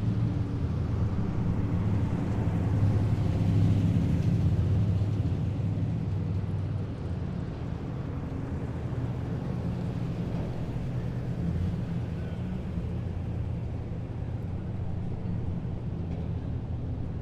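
Heavy military vehicles driving past, their engines running with a steady low drone. It is loudest a few seconds in and eases off slightly after about seven seconds.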